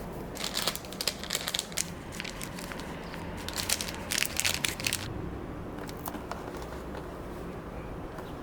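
Crinkling, crackling handling noise in two spells of about a second and a half each, followed by a few light ticks.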